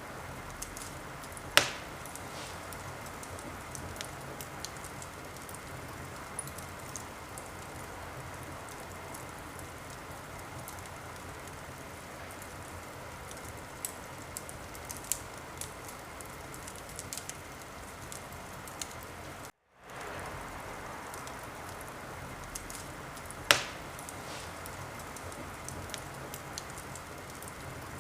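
Wood fire crackling, a steady hiss dotted with small snaps and two sharp louder pops, one about a second and a half in and one near the end. The sound drops out for an instant about two-thirds of the way through.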